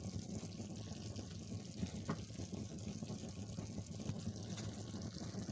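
Chicken mince frying gently in a non-stick pan as a wooden spatula stirs the spice powders through it: a soft, steady sizzle over a low hum, with a faint click of the spatula about two seconds in.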